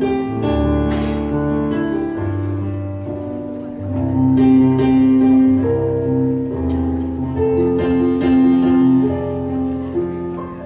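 Choir singing slow, held chords with piano accompaniment, the chords changing every second or two.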